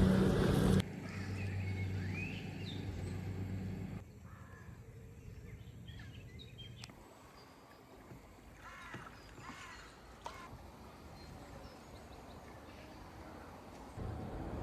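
Quiet outdoor ambience with a few short bird chirps, in several short clips that change suddenly every few seconds; a steady low hum fills the first few seconds.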